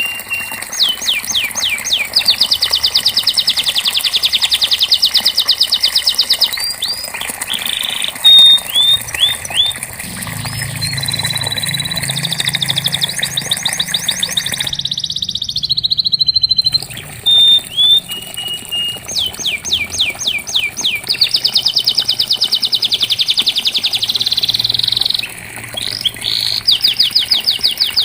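Domestic canary singing: long rolling trills of rapidly repeated notes, broken by single whistled notes and short gliding phrases. The song stops briefly about halfway and then resumes.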